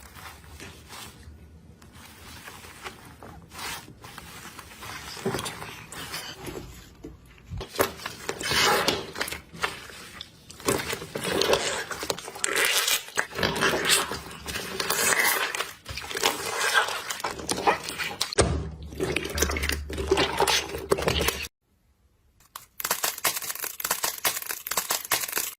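Slime being squeezed and pressed by hand, giving a dense run of wet crackles and small pops, in several short stretches broken by a brief silent gap a few seconds before the end.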